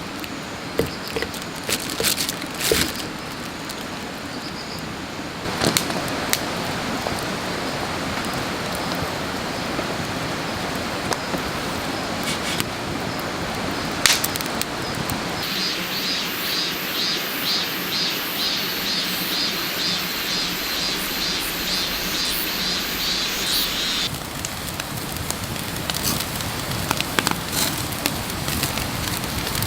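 Wood fire crackling with scattered sharp pops over a steady hiss. The background changes abruptly a few times, and for several seconds in the middle a rhythmic high pulsing, about two a second, runs alongside.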